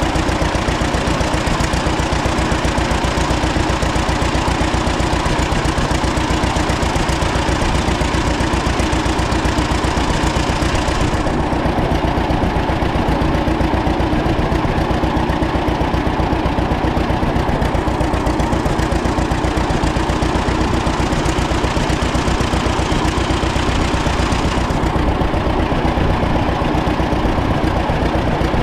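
1936 John Deere Model A's two-cylinder engine running steadily at idle, a continuous even beat of firing pulses.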